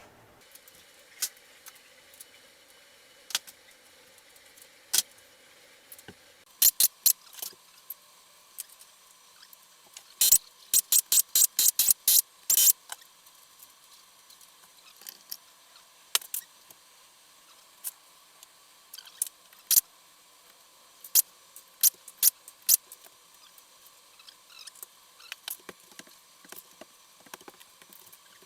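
Scattered sharp metallic clicks and taps of hand tools and engine parts being handled, with a quick run of about eight clicks a little before the middle.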